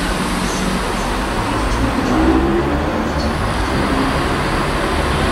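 Diesel train approaching slowly along the platform, its engine running with a steady low drone that grows a little louder about two seconds in.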